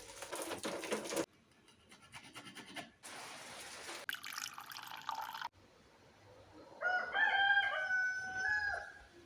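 A rooster crowing once, a single call of about two seconds starting about seven seconds in, held on one pitch and falling off at the end. Before it come short cut-together stretches of steady hiss.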